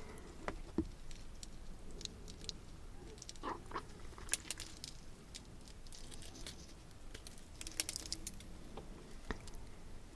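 Soft eating sounds close to the microphone: scattered small mouth clicks and light crackles of chewing, in a few short clusters.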